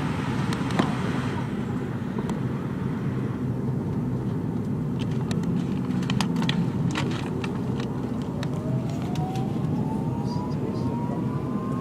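Steady low rumble inside the cabin of a McDonnell Douglas MD-83 jet airliner, with scattered clicks and rattles. About seven seconds in, a whine begins to rise slowly in pitch.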